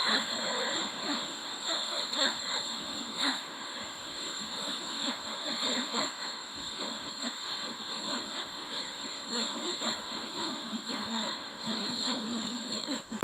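Synthetic AI voice making garbled, breathy, hissy babble with no clear words, over a steady high-pitched whine.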